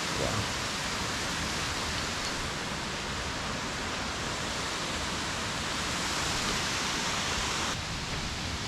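Steady rushing hiss of a waterfall's falling water, even and unbroken, easing slightly near the end.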